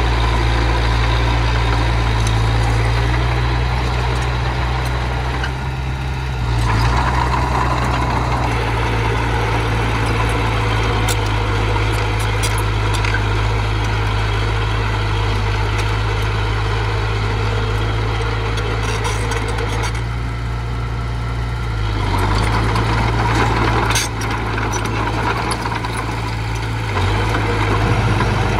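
Engine of small earth-moving machinery running with a steady low drone. Its pitch and load shift several times, and a few sharp clanks sound now and then.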